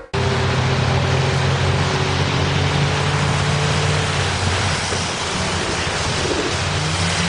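Loud, steady rushing noise over a low hum, typical of a vehicle heard close up with wind on the microphone; it starts abruptly just after the start.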